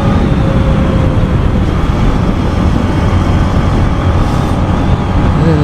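Yamaha MT-15's 155 cc single-cylinder engine running steadily while riding, mixed with heavy wind noise. Near the end a steady pitched note comes in.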